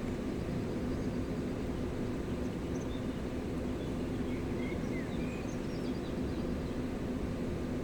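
River water rushing steadily, with a few faint bird chirps about halfway through.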